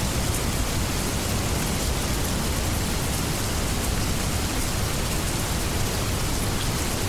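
Steady heavy rain, an even unbroken hiss with no single drops standing out.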